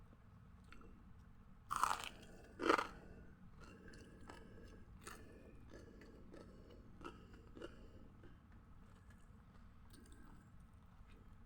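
A person eating crunchy food close to the microphone: two loud crunching bites about two and three seconds in, then quieter steady chewing.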